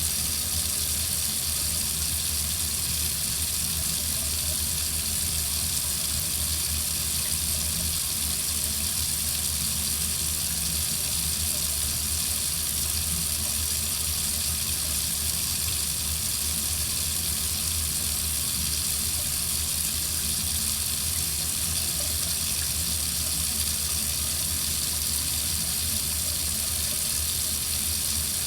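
Water running steadily from a faucet into a sink: an even, unbroken hiss with a low rumble beneath it.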